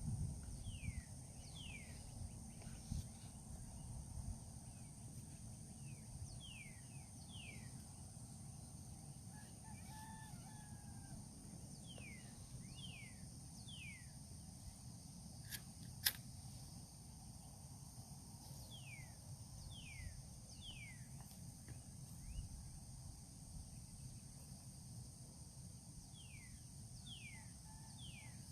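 A bird calling in groups of two to four short, falling notes every few seconds over a steady high insect drone, with a low rumble underneath. A sharp click sounds a little past halfway.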